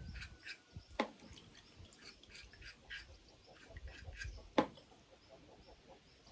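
Birds chirping in quick repeated short notes, with two sharp clicks, one about a second in and a louder one past the middle.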